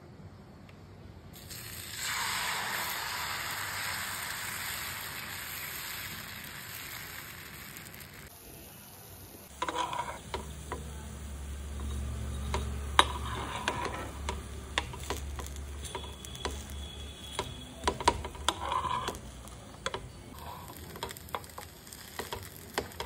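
Dosa batter sizzling on a hot nonstick tawa. The hiss starts about two seconds in, and later a spatula scrapes and taps repeatedly against the pan as the dosa is folded.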